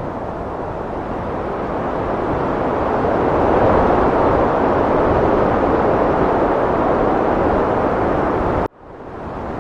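Heavy wind blowing in a steady rush, swelling into a stronger gust a few seconds in. Near the end it cuts out abruptly for an instant and then fades back up, as at the seam of a loop.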